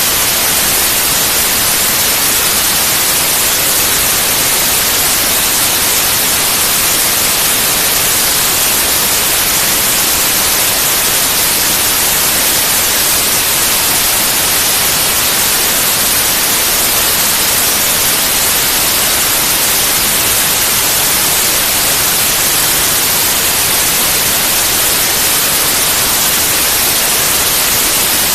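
Steady, loud white-noise hiss with no changes or events, brightest in the treble.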